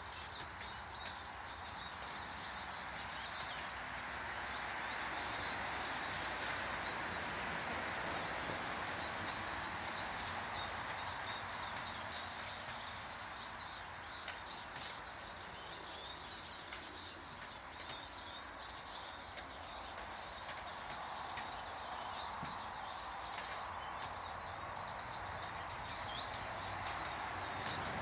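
Small birds chirping and twittering at a garden bird table, many short calls with a few high double notes every few seconds, over a steady rushing background noise.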